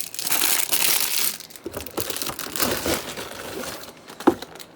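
Plastic LEGO parts bag crinkling and rustling as it is handled and opened, easing off after a few seconds, with one sharp click near the end.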